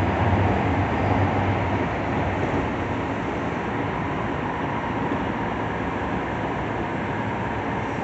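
Tsukuba Express TX-2000 series electric train running between stations, heard inside the passenger car: a steady rumble of wheels on rail and running gear. It eases a little in the first couple of seconds, as a low hum fades.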